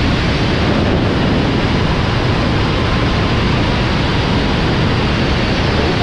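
Steady, loud roar of military jet aircraft noise and rushing air, even throughout and cutting off abruptly at the end.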